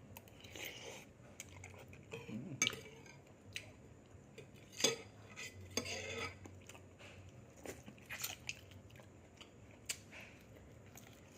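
Cutlery clinking and tapping against dishes in scattered, irregular light knocks, with some chewing.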